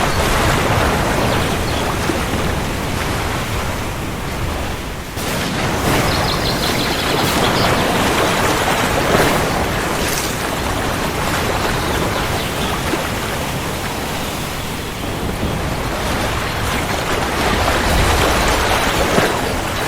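Heavy rain falling steadily, a dense even hiss that dips briefly about a quarter of the way in, with a low thunder rumble swelling near the end.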